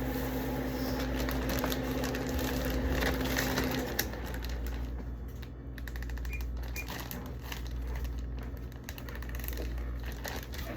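Plastic bags crinkling and rustling as peppers are handled and packed, a busy run of small irregular crackles and clicks. A steady low hum runs under it and stops about four seconds in.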